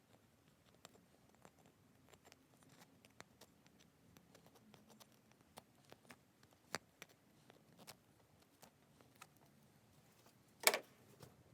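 Faint scattered clicks and light taps, with a louder short clatter about ten and a half seconds in.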